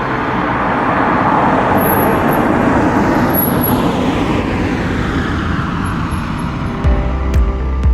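Car sound effect: the noise of a vehicle going by, swelling within the first couple of seconds and then slowly fading away.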